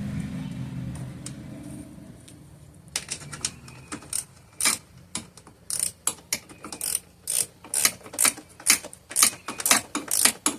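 Ratchet wrench clicking in quick, irregular strokes as a bolt on the generator's wheel kit is tightened. A low hum dies away in the first two seconds, before the clicking starts.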